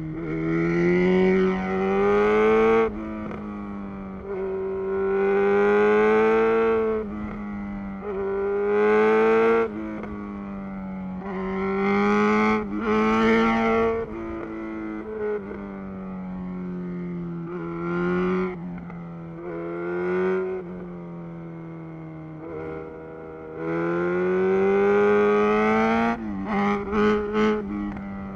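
Yamaha XJ6 inline-four running through a Black Widow full exhaust system while riding. The exhaust swells loud with repeated throttle openings every few seconds and drops back between them, with a quick run of short throttle blips near the end.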